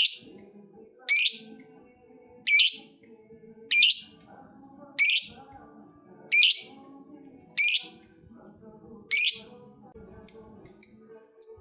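Lovebird calling: loud, harsh shrieks repeated about every 1.3 s. About ten seconds in they give way to a quicker run of shorter, higher chirps, about two a second.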